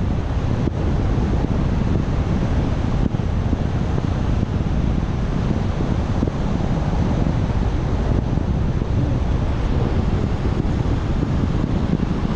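Wind buffeting the microphone: a loud, steady rumbling noise with no breaks.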